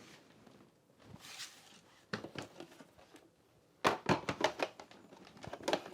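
Hard plastic parts of a PROSCENIC WashVac F20 cordless wet-dry vacuum being handled: a few soft knocks, then a quick run of clicks and knocks about four seconds in as a part is pushed back and clicks into place.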